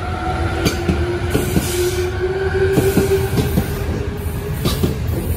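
Electric commuter train rolling close past along the platform as it pulls out. A steady whine rises slightly and then holds over a low rumble, with wheels clicking over rail joints a few times a second.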